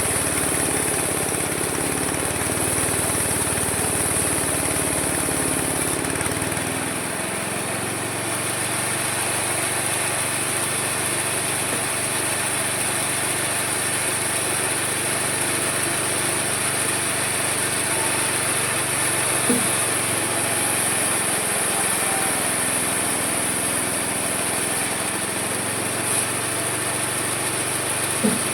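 Homemade mini sawmill running steadily, its continuous machine noise carrying a high whine; the low hum drops away about seven seconds in.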